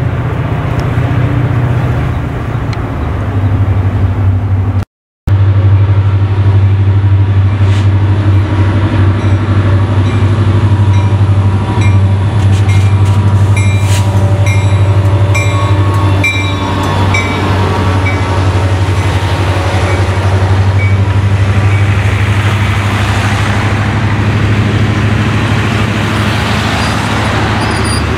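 Diesel-hauled passenger train passing close by at slow speed as it arrives at a station: a steady low locomotive engine rumble, then the cars rolling past on the rails. A run of short ringing tones sounds as the locomotive goes by, and the sound breaks off in a brief gap about five seconds in.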